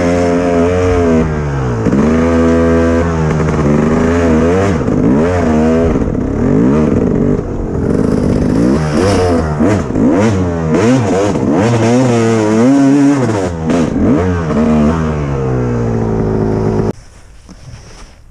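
Kawasaki KX250 two-stroke single-cylinder dirt bike engine revving up and down again and again, its pitch rising and falling with the throttle. The engine sound cuts off suddenly about a second before the end.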